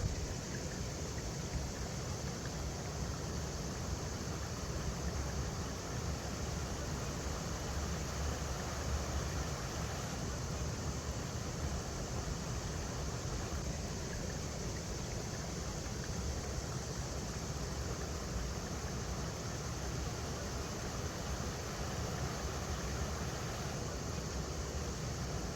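River water flowing over rocks: a steady rushing with a low rumble underneath.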